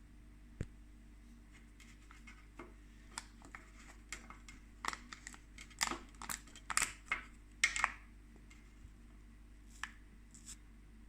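Irregular clicks, scrapes and crinkles of a fish-food package being handled, busiest in the middle, over a faint steady hum.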